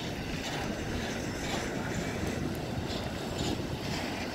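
Double-stack freight cars rolling past: a steady rumble of steel wheels on rail, with a regular clicking of wheels over rail joints.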